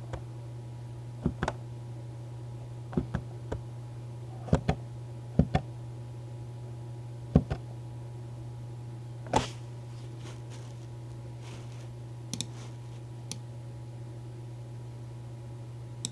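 A steady low hum with irregular sharp clicks and taps, some in quick pairs. The loudest tap comes about nine seconds in.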